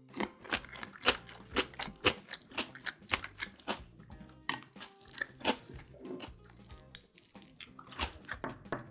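Close-miked chewing of a mouthful of crunchy food, with sharp wet crunches about two or three a second, over quiet background music.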